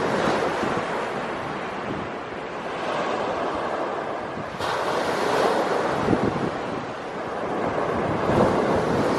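Small waves breaking and washing on the beach, swelling and falling every two to three seconds, with some wind buffeting on the microphone.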